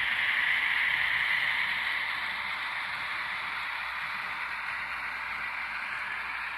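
N scale model of the Reading 2102 steam locomotive running with its freight train: a steady whir of its small motor and wheels on the track, easing off slightly about two seconds in.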